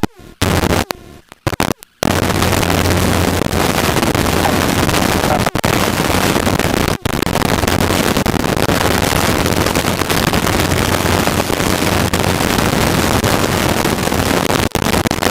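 Helicopter engine and rotor noise heard inside the cabin in cruise flight: a loud, steady drone with a low hum. The sound drops out briefly several times in the first two seconds.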